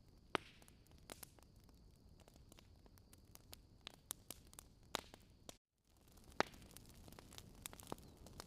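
Fireplace fire crackling: irregular sharp pops and snaps over a soft hiss. The sound drops to dead silence for a moment a little after halfway, then resumes.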